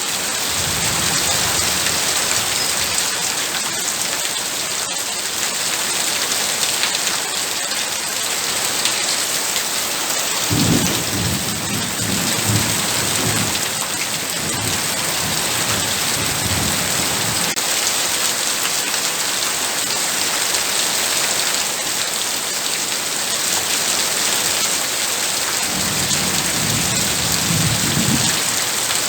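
Heavy rain falling in a steady hiss, with low rolls of thunder: a long one starting about ten seconds in and lasting some seven seconds, and a shorter one near the end.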